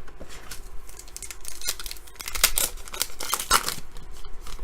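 Trading card pack being handled: a foil wrapper crinkling and tearing, with cards scraping and snapping against each other in a quick, uneven run of clicks.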